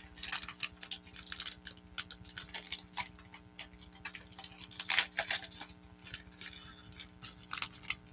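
A trading card pack being opened and its cards pulled apart and flicked through by hand: a run of irregular sharp clicks and crackles, some cards stuck together by extra glue. A faint steady hum lies underneath.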